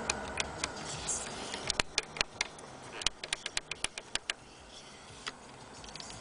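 Plastic dashboard buttons in a 1999 Mercedes E430 being pressed one after another: a run of short, sharp clicks, irregular and thickest in the middle, with a lone click near the end.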